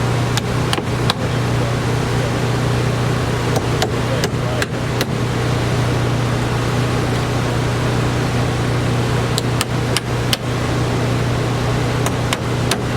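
A steady low machine hum with short sharp knocks now and then, some in quick groups of two or three.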